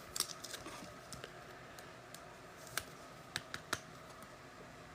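Faint clicks and taps of trading cards being handled: a quick cluster in the first half second, then a few separate taps about three seconds in.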